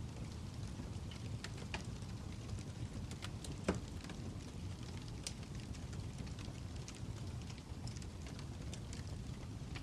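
Fire crackling: irregular sharp pops and snaps over a steady low rumble, with one louder pop nearly four seconds in.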